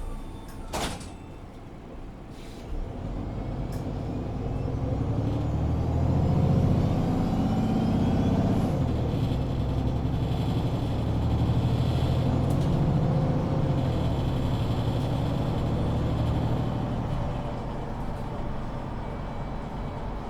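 Inside a MAN Lion's City 19C EfficientHybrid articulated bus: a sharp clunk about a second in, then the diesel engine and Voith automatic gearbox pulling away and accelerating hard, holding under load, and easing off near the end.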